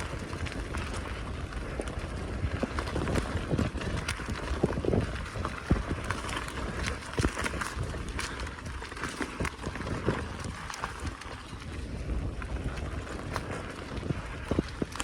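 Riding a bicycle along a rough forest track: the tyres roll over the ground and the bike rattles with many short clicks and knocks, over a low rumble of wind on the microphone.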